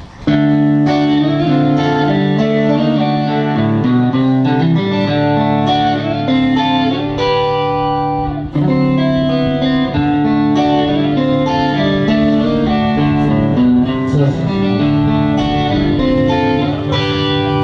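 Guitar music, mainly electric guitar, playing sustained notes over a steady low drone.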